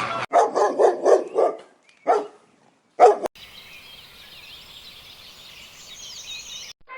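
A dog barking: a quick run of about six barks, then two more single barks. After that comes a fainter, high-pitched chirping that cuts off just before the end.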